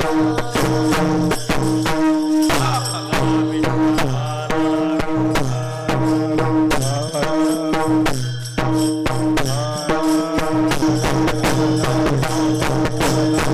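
Devotional kirtan music: a singing voice sliding through a melody over a steady held drone, with dense, regular percussion strokes.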